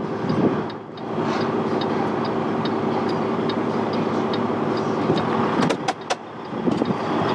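Semi-truck diesel engine running steadily, heard from inside the cab during slow maneuvering, with a light regular ticking about twice a second. A few sharp clicks come about six seconds in.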